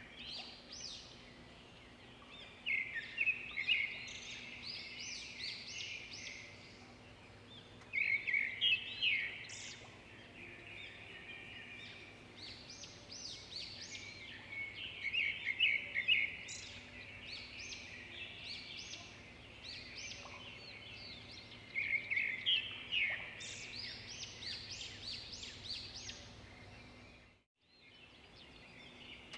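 Swiftlets twittering: dense clusters of short, high chirps in bursts every few seconds, over a faint steady hum. The sound cuts out for a moment near the end.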